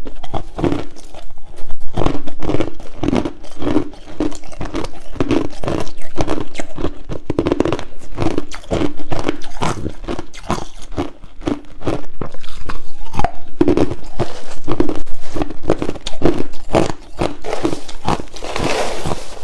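Crushed ice being bitten and chewed: dense, irregular crunching with many sharp cracks, close to the microphone. A short hiss comes near the end.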